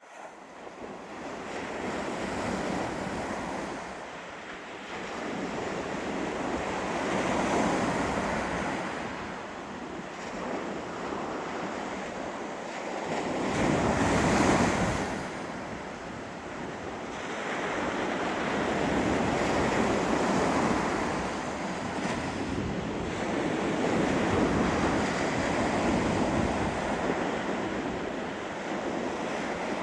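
Ocean waves washing in under strong wind, the noise swelling and easing every few seconds, with wind buffeting the microphone. The loudest surge comes about halfway through.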